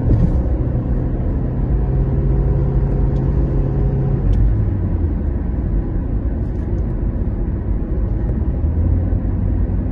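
Steady low rumble of a running car, with a faint hum over it that stops about four seconds in.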